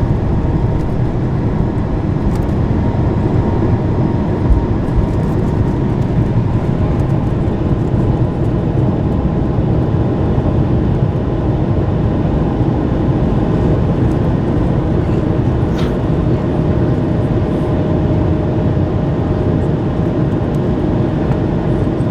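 Steady jet engine noise heard inside the cabin of an Airbus A220-300, its Pratt & Whitney PW1500G geared turbofans running at high power, with a faint steady whine over the low rumble.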